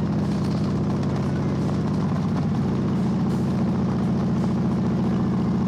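Motorcycle engine running steadily while riding, with road and wind noise; the engine note shifts slightly higher about halfway through.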